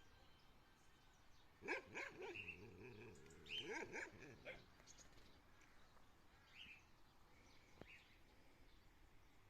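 A dog barking: a couple of short, sharp barks about two seconds in and another quick run of barks around four seconds in.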